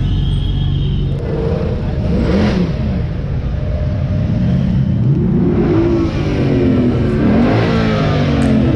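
Sports car engine being revved repeatedly in short blips, its pitch climbing and dropping over a steady idle.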